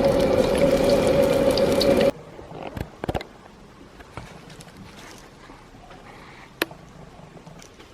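Battered fish fillets sizzling in hot frying oil, a loud steady crackling hiss with a steady hum under it, cut off abruptly about two seconds in. After that only a few light clicks and taps.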